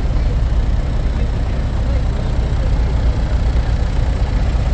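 A diesel semi-truck engine idling: a steady low rumble, with faint voices in the background.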